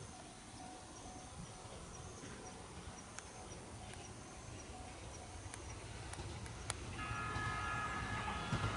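Level crossing as a local electric train approaches: faint, regular high pings of the crossing alarm, and the train's low rumble growing over the last few seconds. About seven seconds in, a chord of steady high tones starts and holds for about two seconds.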